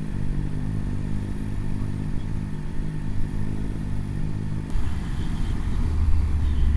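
Motorcycle engine running steadily under way. About two-thirds of the way through, the engine note changes and settles into a deeper, steady hum.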